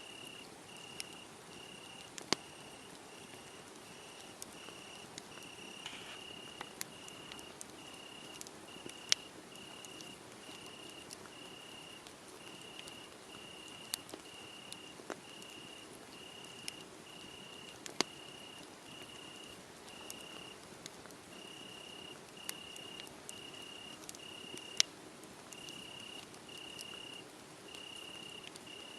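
A cricket chirping steadily in an even series, a little over one chirp a second, pausing briefly a couple of times, over a wood fire crackling with scattered sharp pops.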